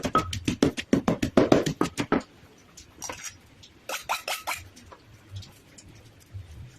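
Pestle pounding in a mortar for a fresh-shrimp salad: quick, even strikes at about five a second that stop about two seconds in, followed by a few scattered light clicks.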